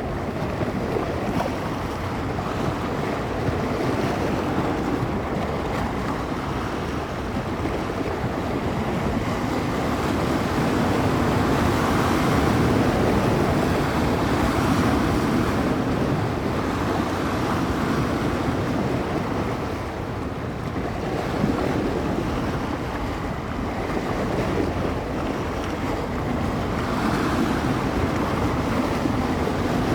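Bay waves breaking and washing against the shore in a continuous wash that swells and eases in slow surges, with wind buffeting the microphone.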